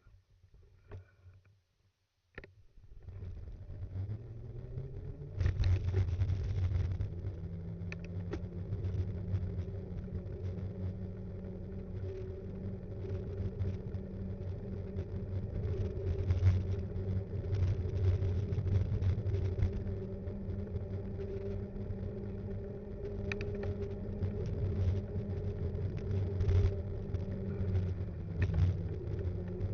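Steady low rumble and hum of a mountain bike's tyres on the road, with the frame shaking and knocking over small bumps, picked up by an action cam mounted on the bike. It starts after a couple of seconds of near silence.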